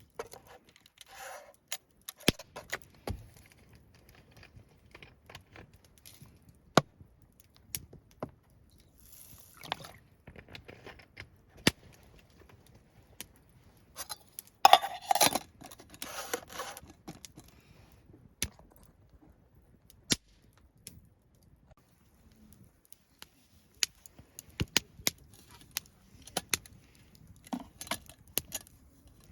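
Scattered sharp clicks and light metallic knocks, with a louder burst of clinking and clattering about fifteen seconds in, from camp cooking gear being handled.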